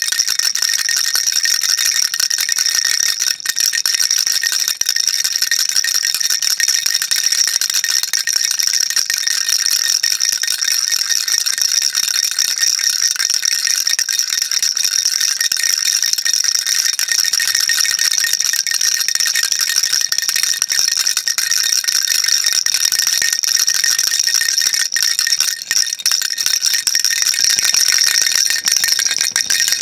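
Baby rattle shaken steadily and without a break, a dense, even stream of small bead clicks with a bright, high-pitched character.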